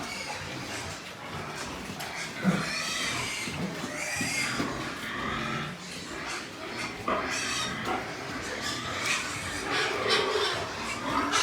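Domestic pigs squealing and grunting, a series of short high calls.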